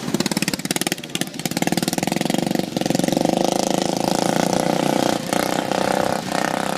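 Racing riding lawn mower engine running hard, with its note dipping briefly a few times.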